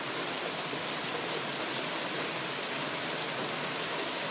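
Heavy thunderstorm rain falling steadily, a dense patter of drops on surfaces.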